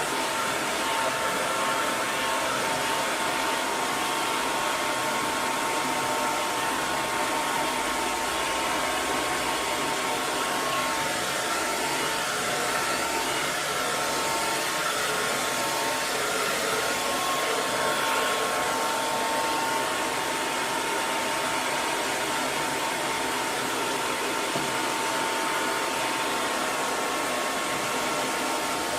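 Hair dryer running steadily: an even rush of blown air with a faint steady whine from its motor.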